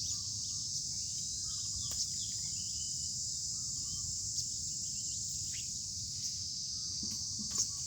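Steady high-pitched drone of an insect chorus, crickets or cicadas, over a low wind-like rumble, with faint bird chirps and a few light clicks, the sharpest near the end.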